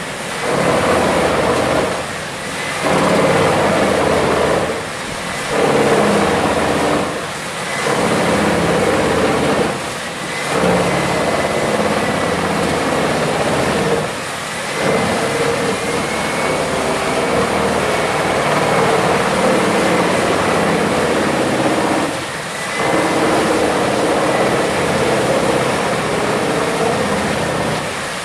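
Heavy wood-processing machine running loudly and continuously, with brief dips in its sound several times.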